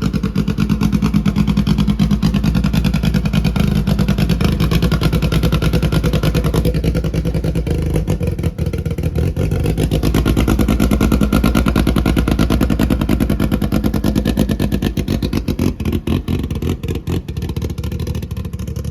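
A car engine running steadily close by, with dense, even firing pulses, easing off somewhat in level near the end.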